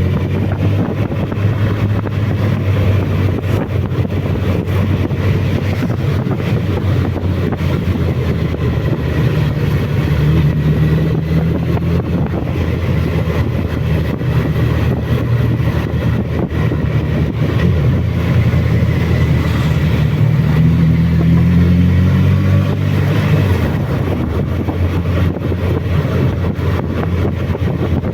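Suzuki Bandit's inline-four engine running under way on a mountain descent, its pitch falling and rising with the throttle and gear changes, over a steady rush of noise.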